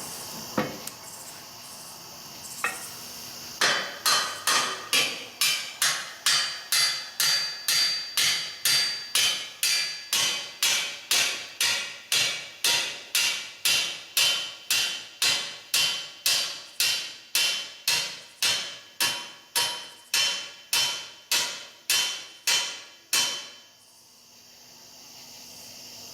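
Hammer blows on steel, a couple of single knocks and then a long steady run of about two strikes a second, each with a short metallic ring, stopping a few seconds before the end: the pivot pin being driven home through its greased bore on the rebuilt three-point-hitch bale lift.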